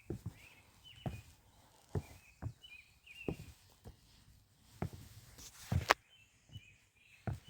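Footsteps walking down wet outdoor steps, about one step a second, with a louder scuffing step just before six seconds in.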